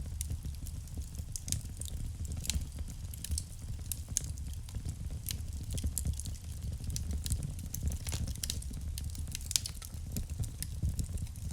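Wood fire burning in a fireplace: frequent sharp, irregular crackles and pops over a low rumble of the flames.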